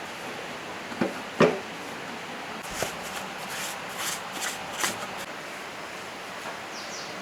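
Metal engine parts being handled and set down: a few short knocks, the loudest about a second and a half in, then a run of lighter clicks and taps over a steady hiss.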